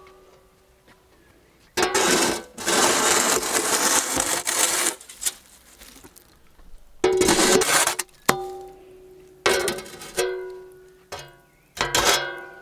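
Kitchenware clattering: a stretch of scraping and rustling, then a series of sharp metallic clinks, each ringing briefly with a clear tone like a struck metal pot or bowl.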